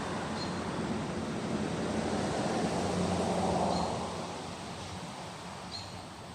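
A broad rushing noise that swells about three to four seconds in and then fades, with three faint, short, high chirps.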